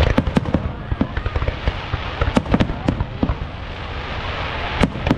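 Fireworks going off in a rapid, irregular series of bangs over a continuous crackling haze, with a cluster of loud bangs about a second in, more around the middle, and a last strong bang near the end.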